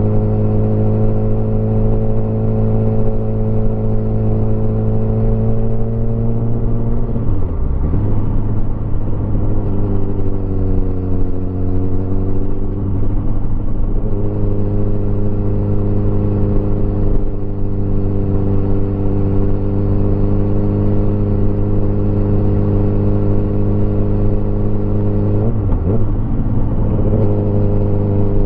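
Motorcycle engine running at steady road speed, with brief drops and recoveries in engine pitch about seven seconds in and again near the end.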